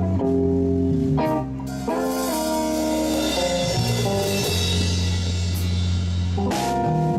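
Live band playing an instrumental stretch between vocal lines: held melody notes over a walking bass line, guitar and drums, with a cymbal wash through the middle and drum hits near the end.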